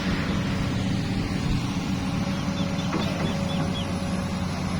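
A heavy engine running steadily while the boat is pulled out. Around the middle come a few short, high chirps.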